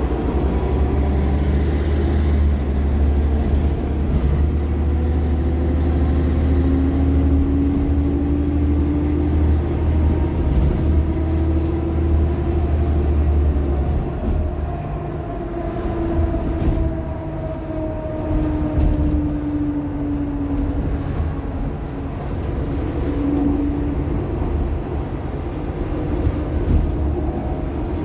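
Nova LFSA hybrid articulated bus, with a Cummins ISL9 diesel and an Allison H50 EP hybrid drive, running under way: a steady low engine drone with a thin high whine above it. About halfway through, the drone drops off and the whine slides down in pitch as the bus eases off.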